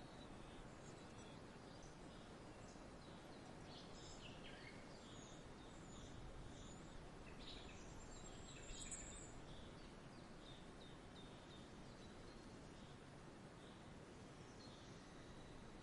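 Faint outdoor ambience of small birds chirping: scattered short chirps over a soft, steady background hiss, with one brighter, higher call about nine seconds in.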